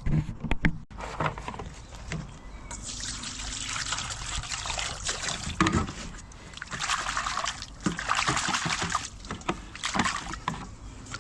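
Water trickling and sloshing in a couple of longer spells, as freshly cut cleavers are rinsed; a few sharp knocks come in the first second.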